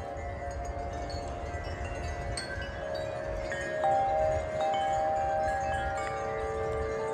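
Metal wind chimes tuned to a whole-tone scale, blown by strong wind. They give overlapping long-ringing notes, with new strikes coming in every second or so and the loudest a little after the midpoint. A low wind rumble runs beneath.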